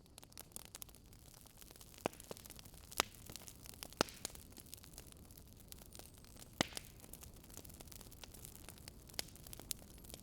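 Quiet crackling wood fire: a steady low hiss broken by sharp, irregular pops, with louder pops about three, four and six and a half seconds in.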